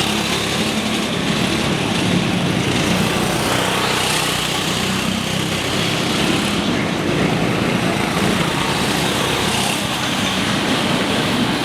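Go-kart engines running steadily: small, high-revving engines droning over a constant noisy background.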